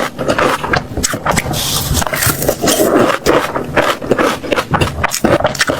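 Close-miked chewing of crunchy food, with a rapid, irregular run of crisp crunches and clicks.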